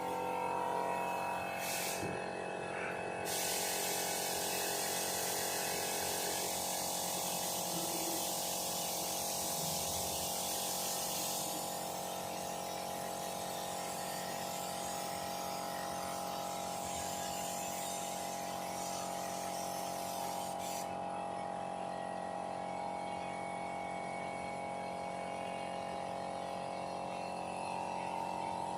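Compressed-air spray gun hissing in a long pass, spraying epoxy primer over repaired car bodywork, with the hiss stronger in the first half and fading out about two-thirds through. A steady hum runs underneath.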